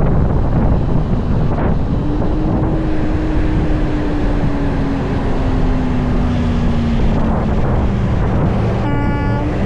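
Motorcycle running at freeway speed with heavy wind rush on the microphone. The engine note falls slowly and steadily as the bike slows, and a short beep sounds near the end.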